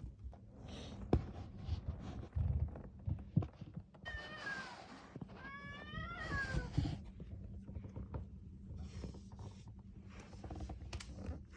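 A cat yowling, a drawn-out call that wavers up and down in pitch for about three seconds starting about four seconds in: the threat call of a cat facing off another cat. A few soft knocks come before it.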